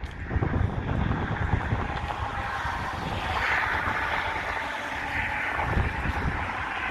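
Wind buffeting the microphone in uneven low gusts. A steady hiss underneath grows louder about three seconds in.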